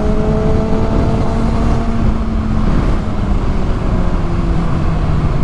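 Kawasaki ZX-6R inline-four engine running at freeway speed, heard over wind rumble on the rider's microphone; its pitch climbs slowly, then drops lower about three and a half seconds in as the throttle eases.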